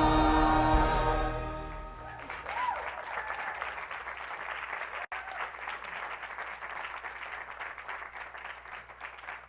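A choir with accompaniment holds a final chord that dies away about two seconds in; then the audience applauds, the clapping slowly thinning out.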